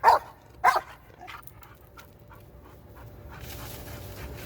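A dog barking twice in quick succession at the start, with a few fainter barks just after, then falling quiet.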